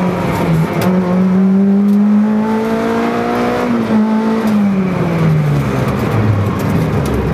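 Peugeot 309 rally car engine heard from inside the cabin at full throttle. Its pitch dips briefly near the start as it changes gear, then climbs for about three seconds. From about four seconds in, the revs fall away steadily as the car lifts off and slows after the stage's finish board.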